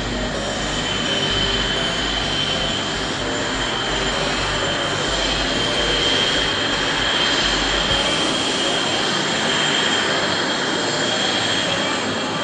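Jet engines of Blue Angels F/A-18 Hornets, a continuous rush of jet noise with a steady high-pitched whine. The low rumble drops away about eight seconds in.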